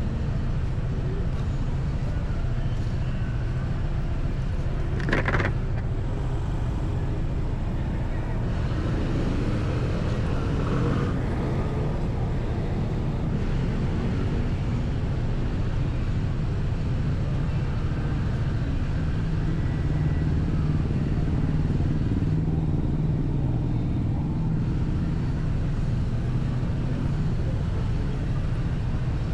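Motorcycle ride: the engine and road noise run steadily with a heavy low rumble. There is one short, sharp sound about five seconds in.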